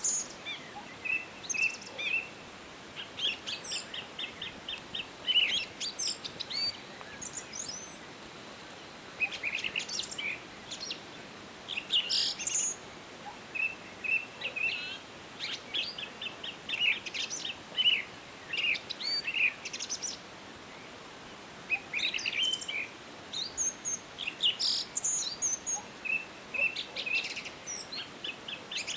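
Several songbirds singing and calling in a forest: rapid trills, short chirps and whistled notes overlapping over a faint steady background hiss.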